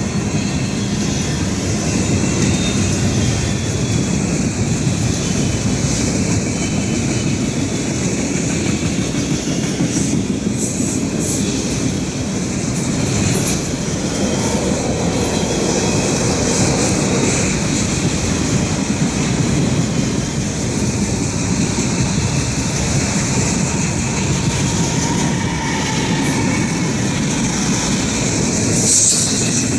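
Norfolk Southern freight train cars rolling past at track side, a steady loud rumble of wheels on the rails.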